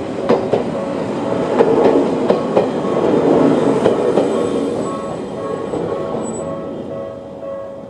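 Ueda Electric Railway 1000-series electric train passing over a level crossing, its wheels knocking over the rail joints in a string of sharp clacks. The passing noise is loudest three to four seconds in and fades toward the end. The crossing's electronic warning bell, a Tokyu-type tone, rings steadily throughout.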